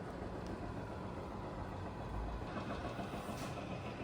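Steady low rumble of outdoor background noise through an open window.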